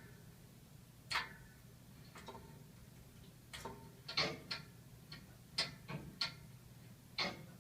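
Hot-water radiator and its heating pipes ticking and knocking: sharp clicks at uneven intervals, about nine of them, some in quick pairs.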